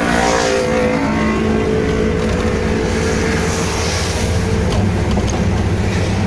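A motor vehicle's engine running steadily, with road noise, while driving.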